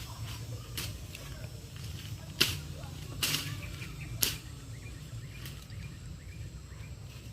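About five sharp knocks or cracks at irregular intervals, the third a little longer, over a steady low rumble.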